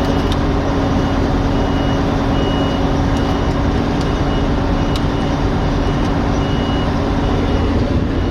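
Claas Lexion combine harvester running steadily with a low hum, while a high warning beep sounds on and off in short, uneven pulses.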